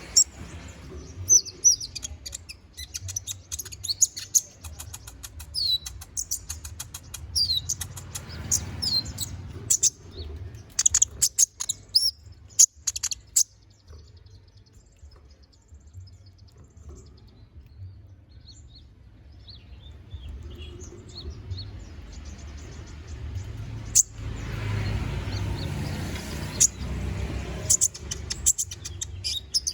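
A konin (kolibri ninja) sunbird singing in full song: fast runs of high, thin chirps and trills, thick in the first half, quieter in the middle, and picking up again near the end.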